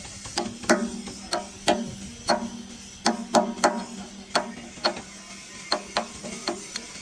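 Hammer blows on metal, about two a second at an uneven pace, each with a short ringing tail, over a steady low hum.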